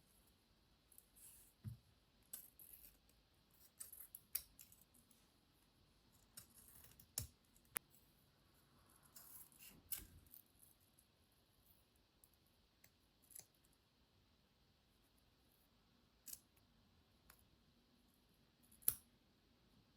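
Near silence broken by scattered faint clicks and short snips of small handwork, such as scissors, about a dozen spread out, with the loudest near the end.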